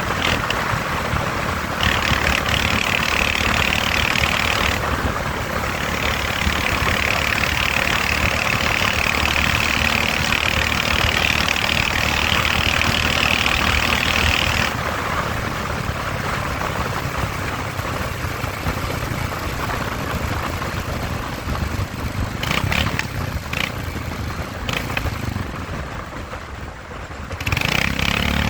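Motorcycle engine running steadily, with a loud hiss that comes and goes over it.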